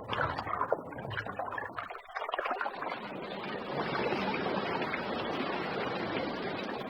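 Steady rush of surf and moving water, after a short break about two seconds in.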